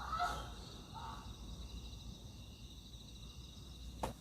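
Crickets chirring steadily over low background noise, with a few faint, brief sounds near the start and a single sharp click near the end.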